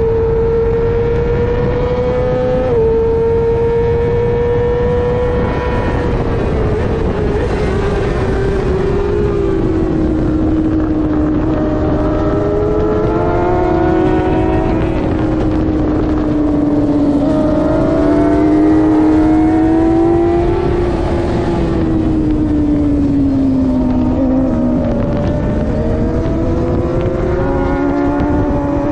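Middleweight superbike engine running hard at high revs over a steady rush of noise. Its note drops in a quick step about three seconds in, then sags and climbs again as the throttle and gears change.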